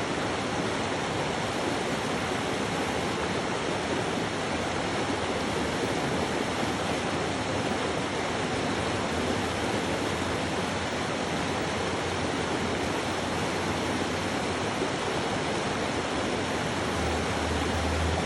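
Steady rush of running water, even and unbroken throughout. A low hum comes in about a second before the end.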